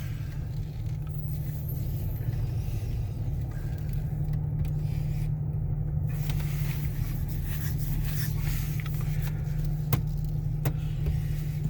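Car engine running with a steady low hum, heard from inside the cabin, with two short clicks near the end.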